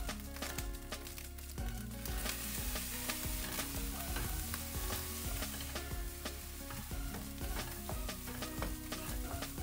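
Scrambled egg pieces sizzling in a nonstick wok while a spatula stirs and scrapes them around, with many short clicks of the spatula against the pan.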